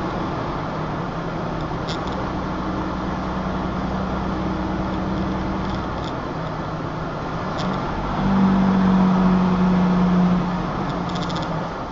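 Motor vehicle driving: a steady engine hum over road noise, the engine tone swelling louder for about two seconds partway through.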